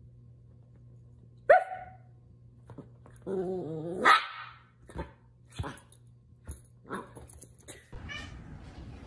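A dog barking: one sharp bark about a second and a half in, then a wavering growl-like call that runs into a louder bark near the middle. Several short taps or clicks follow.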